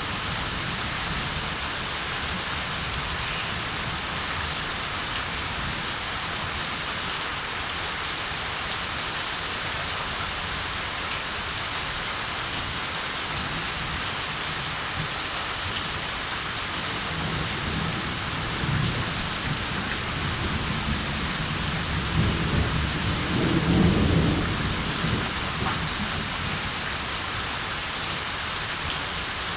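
Steady rain falling, with a distant roll of thunder that builds past the middle, rumbles low for several seconds and fades away before the end.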